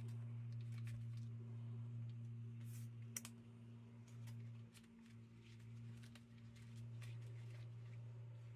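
Small paper labels being handled and sorted through by hand: scattered light clicks and rustles, the sharpest about three seconds in, over a steady low hum.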